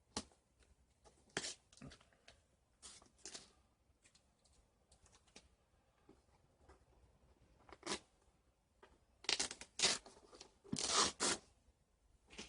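Red packing tape being torn and peeled off a cardboard mailing box, in a series of short rips that come thickest and loudest near the end.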